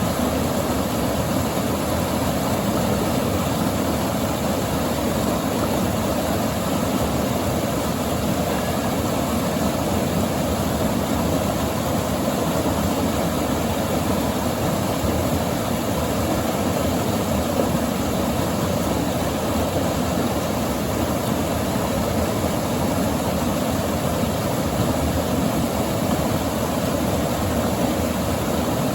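River water rushing and breaking over a current breaker, a steady roar.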